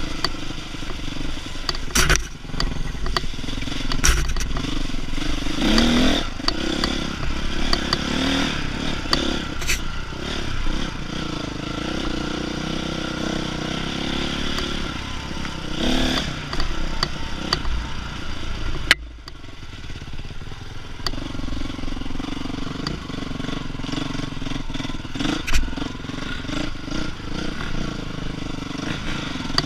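Dirt bike engine running and revving up and down as it is ridden over rough trail, with scattered knocks and clatter. The sound drops out abruptly about two-thirds of the way through, then the engine comes back.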